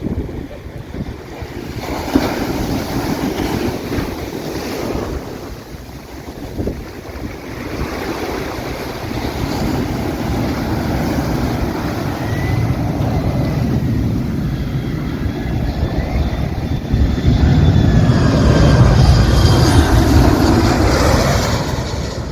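Surf breaking on a beach with wind buffeting the microphone, the rush swelling louder toward the end.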